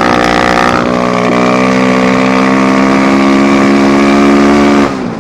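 Apollo dirt bike engine running at steady, high revs while riding, its note edging up slightly. Near the end the throttle cuts off briefly, as for a gear change.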